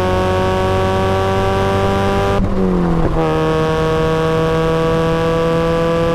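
Supercharged Mazda Miata's four-cylinder engine under acceleration, its revs climbing slowly, then a quick upshift about two and a half seconds in: the sound briefly drops away as the throttle lifts, the revs fall, and they start climbing again.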